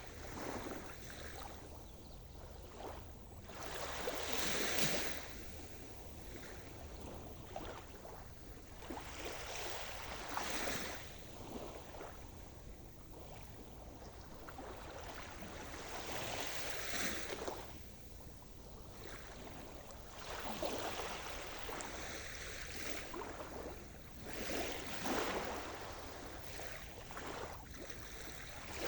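Sea surf: waves breaking and washing in about every four to six seconds, each a swell of rushing noise that rises and then fades back.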